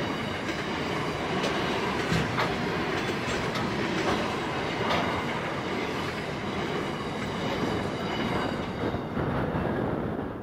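Container wagons of an intermodal freight train rolling past: a steady rumble with irregular clacks of wheels over the rail joints and a faint high ring from the wheels. The last wagon clears near the end.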